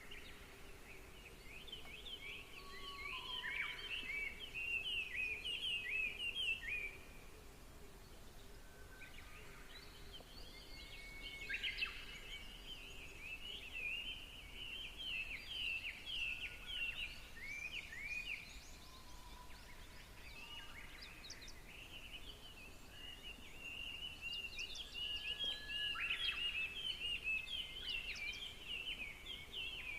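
Songbirds singing: three long runs of quick, high chirping phrases, with a few lower single whistles in the gaps between them.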